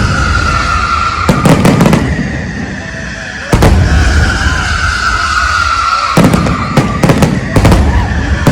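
Fireworks exploding in the sky: clusters of sharp bangs, several in quick succession about a second in, one big report a little after three seconds, and a rapid run of bangs near the end, each trailing a low rumble. A steady high-pitched tone that slowly falls in pitch runs underneath.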